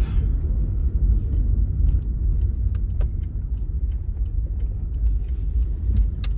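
Car engine and road rumble inside the cabin as the car rolls slowly into a parking spot, steady and low, with a few faint clicks.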